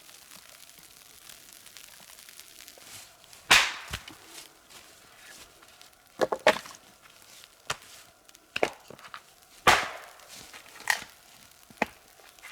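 Axe chopping wood: sharp, irregularly spaced strikes starting about three and a half seconds in, some coming in quick pairs.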